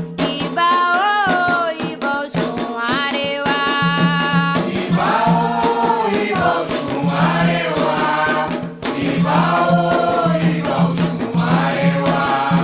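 Afro-Brazilian ritual chant for Xangô sung call-and-response: a solo voice leads over steady hand percussion, then about four and a half seconds in a chorus of voices answers over a pulsing drum beat.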